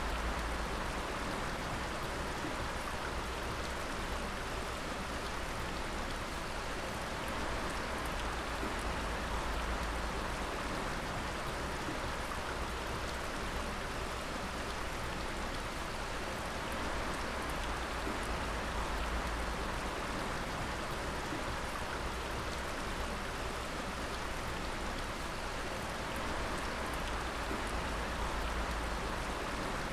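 Water dripping steadily, many drops falling and splashing at once in a continuous, even spatter over a low rumble.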